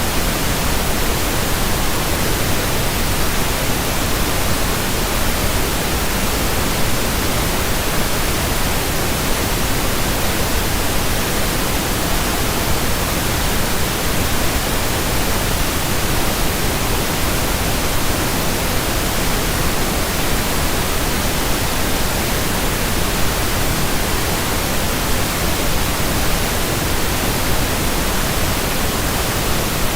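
Steady, unbroken pink noise: an even hiss spread across all pitches, at a constant level.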